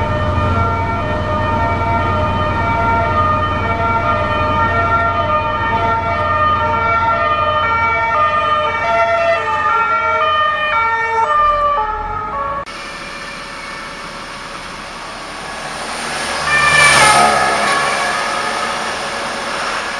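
Police vehicle's two-tone siren alternating between two notes over a low engine and road rumble, its pitch dropping as it passes. After an abrupt change a little past halfway, a second siren swells up, peaks and fades away.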